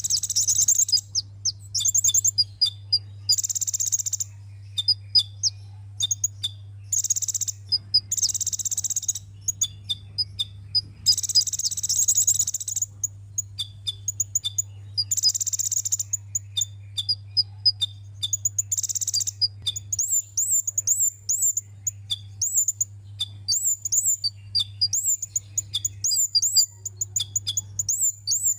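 Sunbird song: bursts of rapid, high-pitched twittering trills, each about a second long, give way after about twenty seconds to a quick run of high up-and-down squeaky notes.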